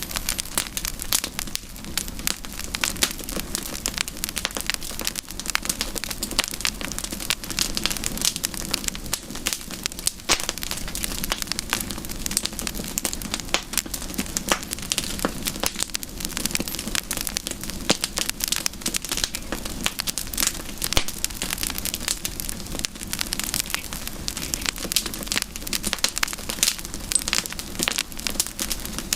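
Campfire burning with continuous dense crackling and popping, the pops irregular and many per second.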